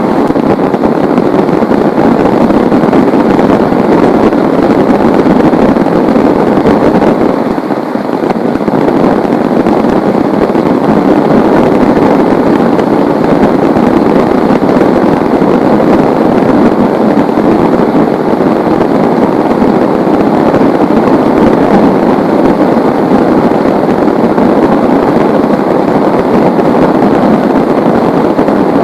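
Heavy rain pouring down in a steady, dense downpour, dipping slightly for a moment about eight seconds in.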